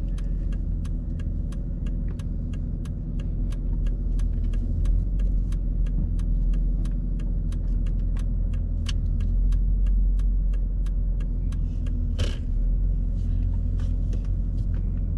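Car interior: a steady low engine and road rumble with an even ticking about three times a second, typical of a turn-signal indicator. There is one sharper knock about twelve seconds in.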